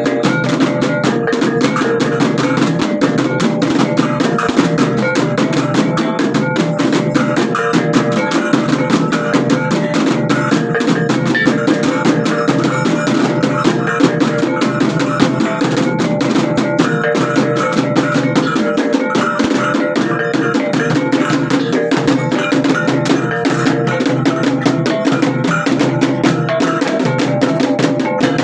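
Traditional percussion music played loudly and without a break: rapid, dense drumming with ringing pitched metal tones running through it.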